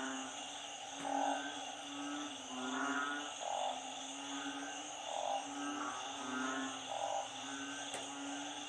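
A chorus of frogs, narrow-mouthed frogs and small frogs, calling in short low notes that repeat about every second or two from several animals at once, over a steady high buzz.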